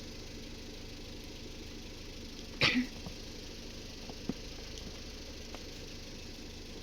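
A person lets out one short, sharp, sneeze-like burst about two and a half seconds in, over a steady low hum.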